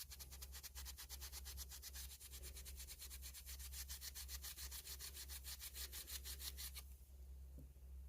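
Hand sanding: sandpaper rubbed back and forth in quick, even strokes, several a second, stopping about seven seconds in.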